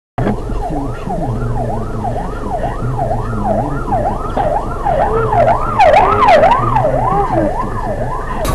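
Emergency vehicle siren with a rapid up-and-down wail, about two cycles a second, over a low vehicle rumble. It starts abruptly and is loudest about three quarters of the way through.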